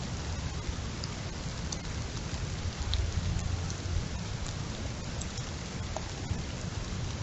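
Heavy rain falling during a windstorm: a steady hiss of rain with scattered drop ticks, over a low rumble that swells about three seconds in.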